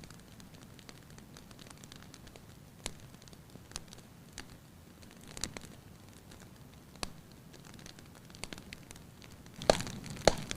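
Wood fire crackling in a fireplace: sparse sharp pops over a low steady hiss, with two louder cracks near the end.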